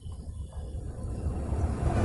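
WAP5 electric locomotive at the head of an express passenger train approaching along the track. The rumble of its wheels on the rails builds steadily louder as it nears.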